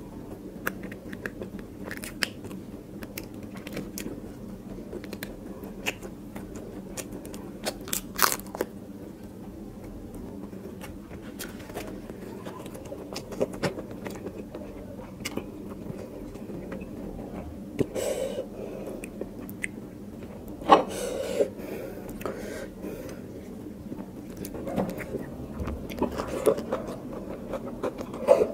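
Close-miked chewing and eating sounds as biryani rice and prawns are eaten by hand: wet mouth clicks and chewing, fingers working the rice on the plate, and a few sharper clicks.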